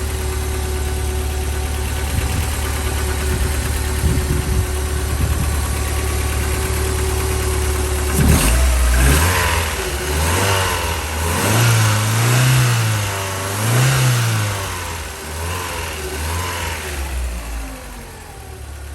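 1996 Land Rover Defender 90's fuel-injected 2-litre double overhead cam petrol engine idling steadily, then blipped several times from about eight seconds in, its pitch rising and falling with each rev before easing back toward idle near the end.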